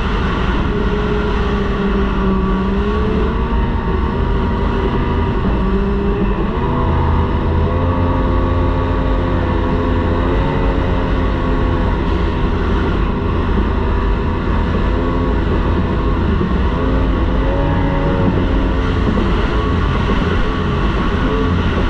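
Racing outboard motor on a T850-class race boat running hard at speed, heard onboard, its pitch stepping up about six seconds in and wavering briefly later, with a rush of wind and water underneath.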